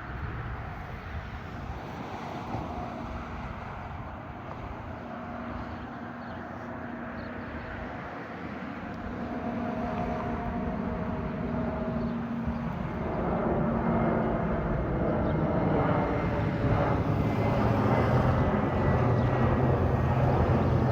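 Airbus A319 airliner's jet engines on approach to land, growing louder as it draws nearer, with steady engine tones over a broad rush. Near the end a high whine comes in and slowly drops in pitch as the jet passes.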